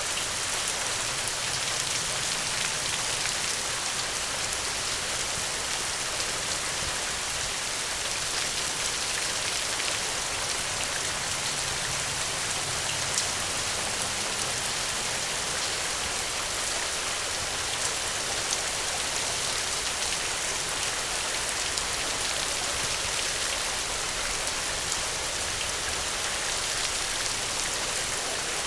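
Heavy rain falling steadily: an even hiss with a few sharper drop ticks.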